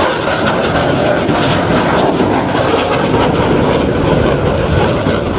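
Jet noise from Blue Angels F/A-18 Super Hornet jets flying by. It is a loud, steady rush with many sharp crackles running through it.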